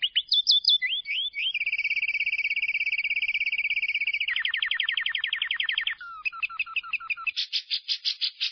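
Lovebird 'ngekek': a long, very fast rapid-fire trill of about fifteen shrill notes a second, held for several seconds. It breaks up into choppier chattering notes and then louder, harsher calls near the end.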